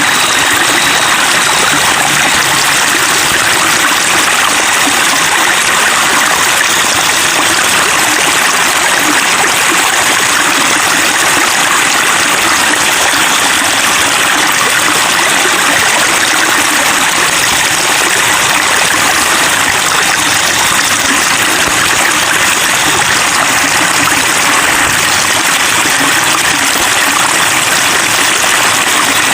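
Running water babbling steadily and evenly, a constant rushing splash with no breaks.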